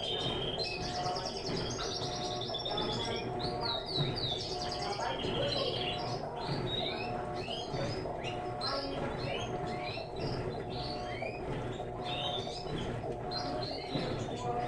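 Several small birds chirping and trilling without a break: fast repeated-note trills, then many short upward-sweeping chirps.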